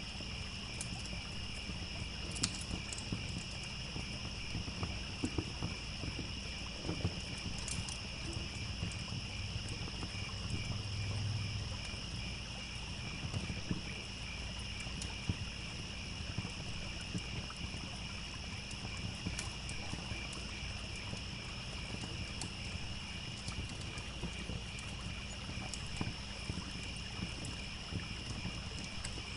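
A steady, pulsing chorus of crickets over a campfire crackling, with scattered sharp pops from the burning wood. A low, steady rush of a trickling stream runs underneath.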